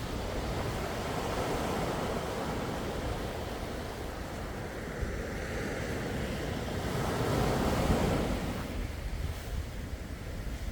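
Sea waves washing in and out, a steady rushing wash that swells to a louder wave about three-quarters of the way through, then falls back.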